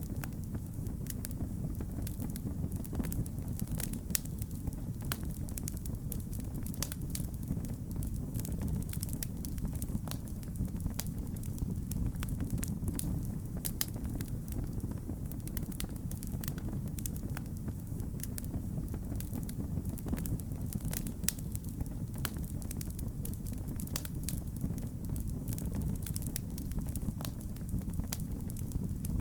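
Wood fire crackling in a fireplace: a steady low rumble of flames under frequent small, sharp pops and snaps.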